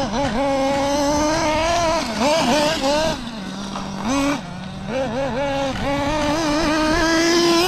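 SH .21 two-stroke nitro engine of an RC buggy running during break-in, its pitch rising and falling with the throttle and dropping back to a steady idle twice in the middle before climbing again near the end.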